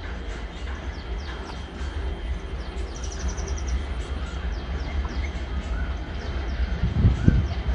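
Low, steady rumble of a diesel-hauled express train approaching in the distance, with small birds chirping in short, falling notes throughout and a brief high trill about three seconds in. A low thump comes near the end.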